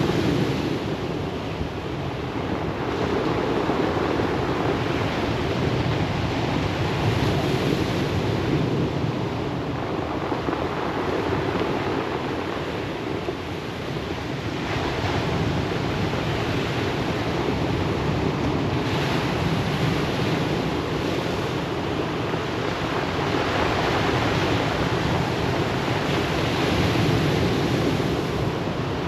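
Ocean surf breaking and washing over a pebble beach: a continuous rush of waves that swells and eases every few seconds.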